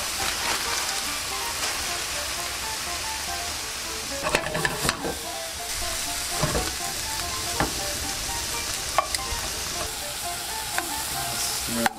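Raw shrimp and scallops sizzling steadily in hot oil in frying pans. Metal tongs click against the pan a few times as the shrimp are turned and moved.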